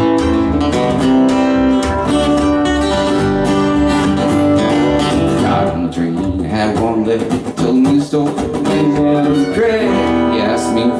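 Live band music: an instrumental passage led by strummed acoustic guitar, with other instruments playing steadily.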